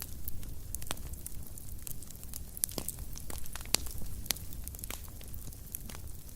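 Wood fire burning in a fireplace, crackling and popping in sharp, irregular snaps over a low, steady rumble of the flames.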